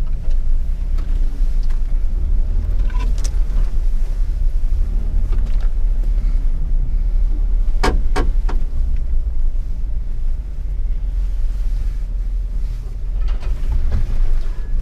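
A 4x4 crawling a rough off-road trail, its engine running low under a steady deep rumble. Several sharp knocks and clunks come through, the loudest two in quick succession about eight seconds in.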